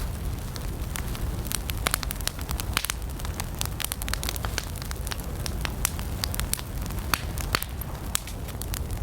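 Wood campfire burning, with many sharp, irregular crackles and pops over a low steady rumble of the flames.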